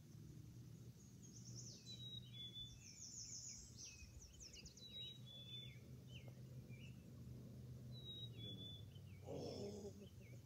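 Faint birdsong: short high whistled notes and quick trills, recurring every few seconds, over a low steady hum.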